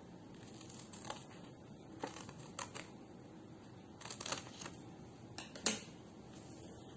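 Scissors cutting into paper: a few faint, irregular snips with paper crinkling between them.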